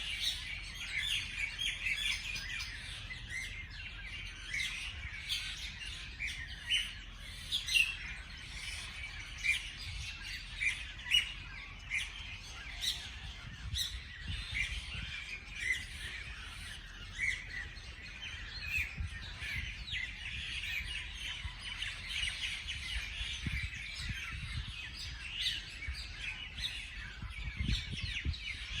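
Many small birds chirping and calling together, a dense mix of short chirps and trills that overlap throughout, over a faint low rumble.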